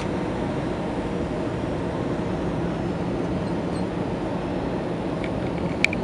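Steady cabin noise inside an Airbus A321 in flight: a low, even rumble of engines and airflow. A single sharp click near the end.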